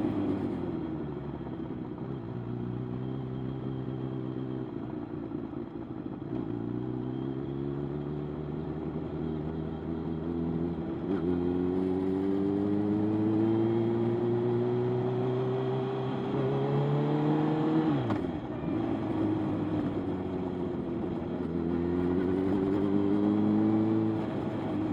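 Motorcycle engine running under way, climbing in pitch as it accelerates and dropping back sharply several times at gear changes.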